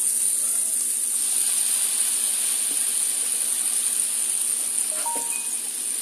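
Shredded potatoes for hash browns sizzling in oil in a skillet, a steady frying hiss, while a spatula turns them; a brief clink about five seconds in.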